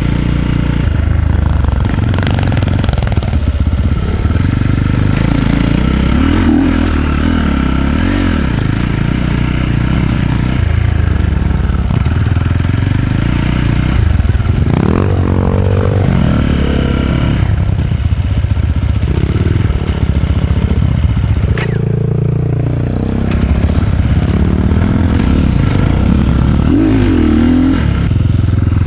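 Enduro dirt bike engine running loud under way, its pitch rising and falling again and again as the throttle is worked.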